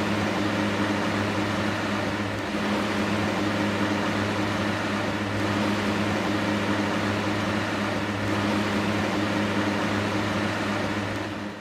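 Electric box fan running steadily: a low motor hum under a broad rush of moving air.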